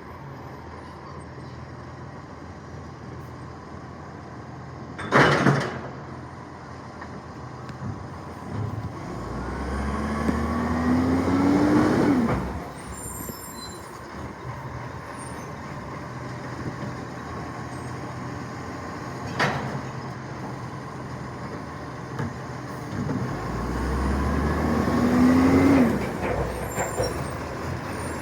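Side-loader recycling garbage truck working a bin collection. Twice the engine revs up with a climbing whine that cuts off sharply after a few seconds, as the truck's bin-lifting cycle runs. Before each rev comes a brief sharp noise over the idling engine.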